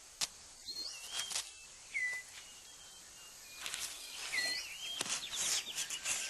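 Tropical forest ambience: short whistled bird calls, several sliding down in pitch, over a thin insect buzz that grows from about four seconds in, with several sharp crackles like dry leaves or twigs being handled.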